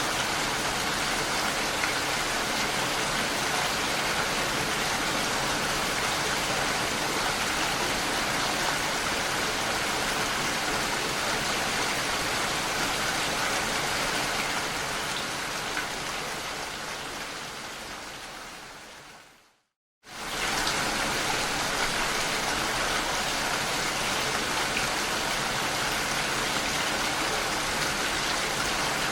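Steady rain falling, an even hiss of drops. About two-thirds of the way in it fades out over several seconds to a moment of silence, then starts again suddenly at full level: the seam where the rain recording loops.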